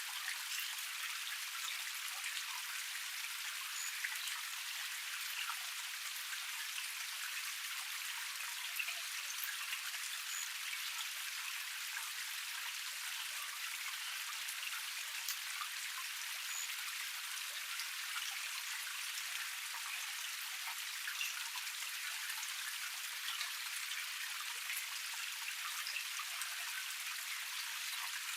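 Water from a small cascade splashing steadily over rocks: an even splashing with many small droplet splashes through it and no deep rumble.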